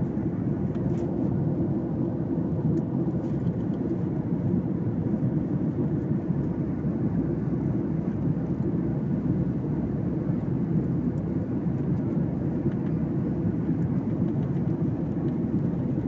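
Steady, low-pitched cabin noise of a passenger airliner in flight, even throughout.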